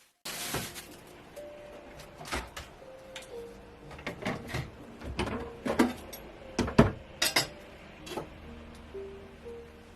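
Dishes and utensils being handled: scattered clinks and knocks, busiest and loudest a little past the middle, over soft background music.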